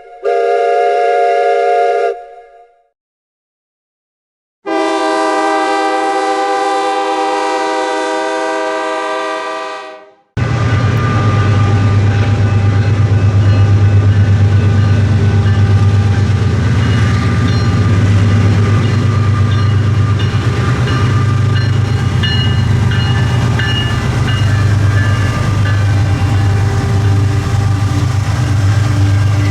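Locomotive air horn sounding a short blast, then, after a brief pause, a long blast of about five seconds. From about ten seconds in, the diesel engines of GE ES44DC and ES44C4 locomotives run with a loud, steady low drone and some rail clatter as the train creeps past.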